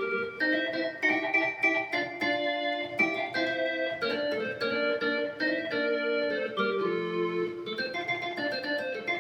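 Yamaha YC-20 combo organ playing the solo of a cumbia-style song: a quick melody in chords, the notes changing several times a second. The percussion is set to about half, which gives each note a short, subtle marimba-like attack.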